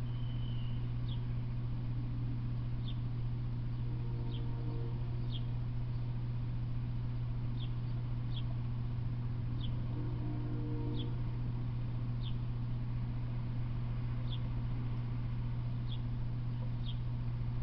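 A steady low hum, with a bird's short high chirps repeating every second or two.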